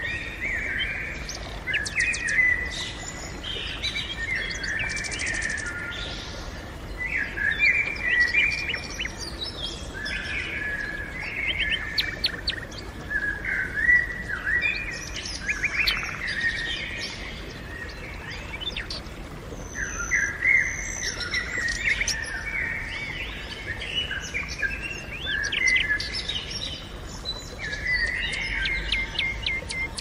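Songbirds singing and calling almost without pause, several birds overlapping in short twittering phrases, with brief sharp high notes scattered through.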